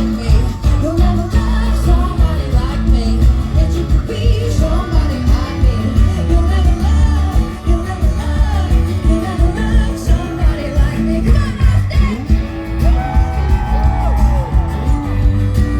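Live pop band playing a song, with a steady bass-heavy beat under a singing voice.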